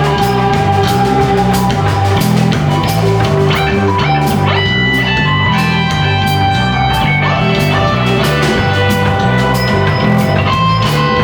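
Live rock band playing an instrumental passage: sustained guitar notes over a repeating bass line and a steady drum kit beat.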